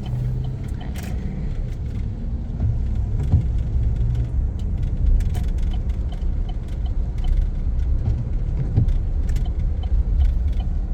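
Pickup truck driving slowly, heard from inside the cab: a steady low engine and road rumble, with a faint regular ticking.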